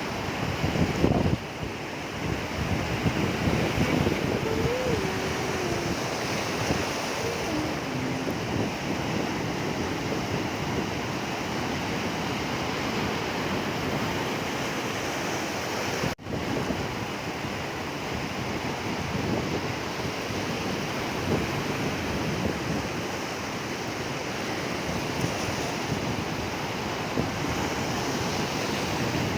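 Sea waves washing onto the shore in a steady rush of surf, with wind buffeting the microphone. The sound drops out for an instant about halfway through.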